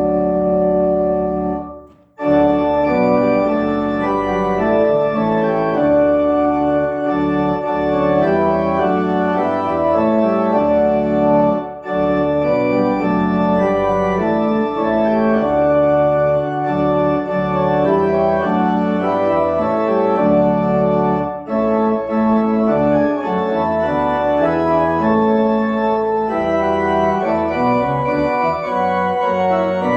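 Organ playing a slow piece of sustained, held chords, with a brief break about two seconds in.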